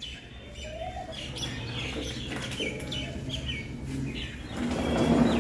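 Birds chirping: a string of short, high, falling chirps, several a second, over background noise that grows louder near the end.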